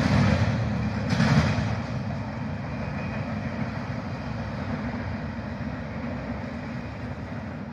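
CSX double-stack container train's last cars rolling away on the rails: a steady rumble of wheel noise, briefly louder about a second in, then fading as the train recedes.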